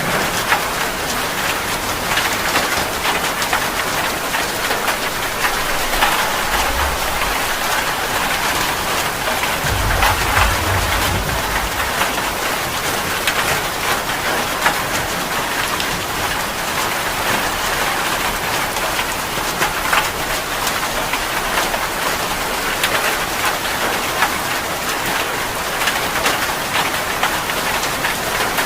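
Heavy rain falling steadily, a dense patter of drops on surfaces. There are two brief low rumbles, about six and ten seconds in.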